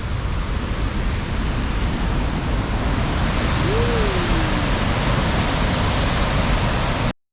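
Steady, loud rush of falling water from a waterfall. About halfway through a faint short sound rises and then falls in pitch over it, and everything cuts off abruptly just before the end.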